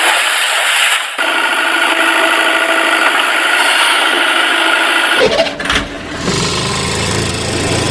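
Engine-like mechanical running sound, thin and high at first with a few steady tones. About five seconds in it changes suddenly to a lower, deeper running sound.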